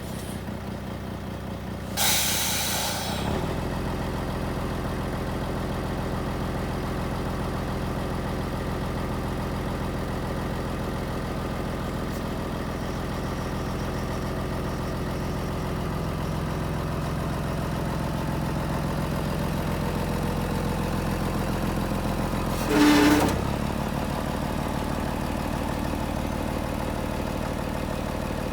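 Scania P112 truck's 11-litre straight-six diesel engine idling steadily. A short loud hissing burst comes about two seconds in, and another brief loud burst with a tonal edge near the end.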